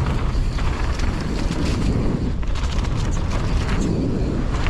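Strong wind rumbling on a mountain bike rider's GoPro microphone while riding downhill, mixed with tyre noise on the dirt and rapid small rattles and knocks from the bike over rough ground.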